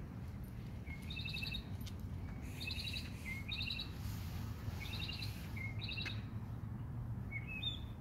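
A songbird singing the same short phrase about five times: a low note jumping up into a quick trill. Near the end it changes to a few rising, stepped notes, over a steady low background rumble.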